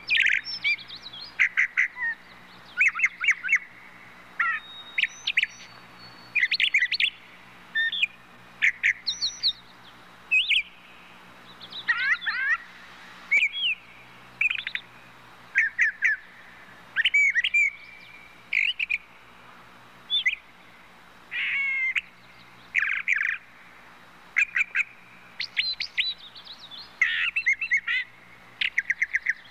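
Small birds chirping and twittering, with short calls coming every second or so over a faint steady low hum.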